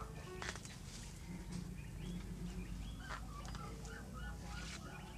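A bird calling in a quick, even series of short arched notes from about three seconds in, with a few knocks and rustles of potted plants being handled before it.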